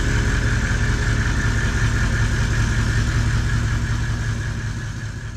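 Toyota Land Cruiser 79 Series engine running at a low idle as the ute rolls slowly forward, a steady low throb that fades away over the last second or so as it moves off.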